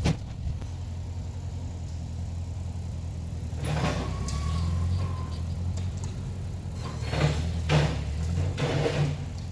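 An engine running with a low rumble that builds up from about four seconds in and eases off again, with several sharp metal clanks and knocks over it.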